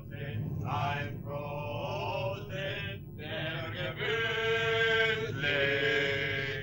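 Men singing a song together in unison, with longer held notes about four seconds in.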